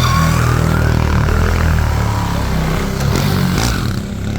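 A motorcycle engine running steadily, with a faint rising whine during the first second or so.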